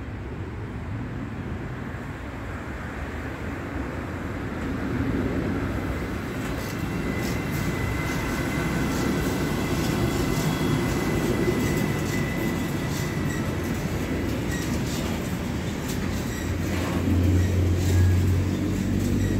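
A Siemens Vectron electric locomotive hauling a freight train of covered hopper wagons approaches and passes close by. The rolling rumble builds up and the wheels click over the rail joints, with a thin high whine as the locomotive goes by.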